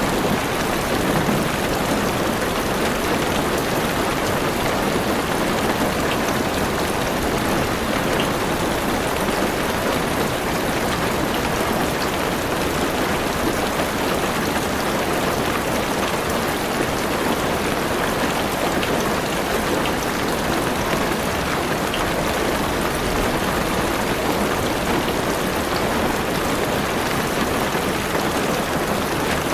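Heavy rain falling steadily on a car's roof and windows, heard from inside the car, with a few faint single drop ticks standing out.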